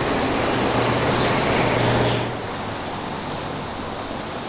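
Road traffic going by: a vehicle passing with a steady low engine hum and tyre noise, which falls off a little after two seconds in.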